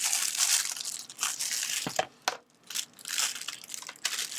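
Packaging crinkling and rustling as a small parcel is handled and opened, with a couple of sharp clicks and a short pause about halfway through.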